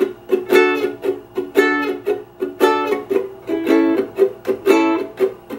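Ukulele strummed in a reggae rhythm, switching between A and D chords. Ringing chords alternate with short chops muted by the left hand, about two strokes a second.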